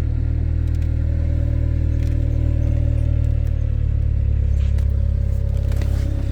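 2014 MINI Cooper S's turbocharged four-cylinder engine idling steadily, still cold from a cold start after sitting for three days.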